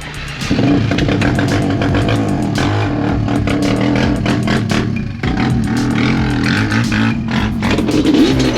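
Quad (ATV) engines running and revving, the revs dropping briefly about five seconds in and again about seven seconds in.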